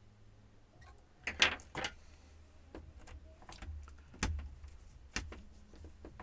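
Plastic laptop case parts being handled and pried: a short scraping rustle about a second and a half in, then several sharp clicks.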